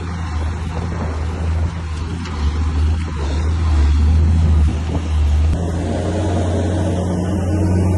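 Komatsu bulldozer's diesel engine running with a deep, steady drone, louder in the middle and shifting in note about five and a half seconds in, with a few faint knocks.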